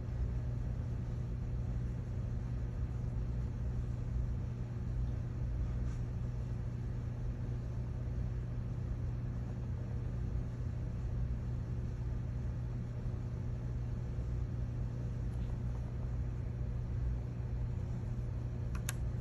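Steady low hum of background noise with no change in level, and a faint click near the end.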